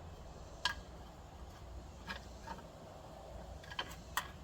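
A handful of light, sharp clicks and taps, about five of them spaced irregularly, over a faint low hum.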